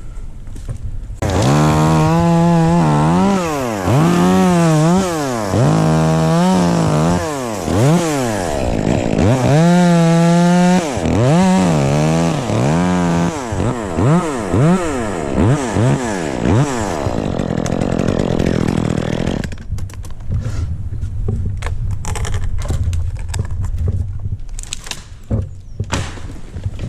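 Chainsaw revving up and down over and over, its pitch rising and falling a dozen or so times as it cuts. About two-thirds of the way through the revving stops, leaving a low rumble and scattered knocks.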